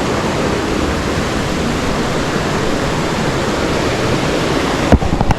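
Creek waterfall: a steady rush of falling water. A single sharp knock sounds near the end.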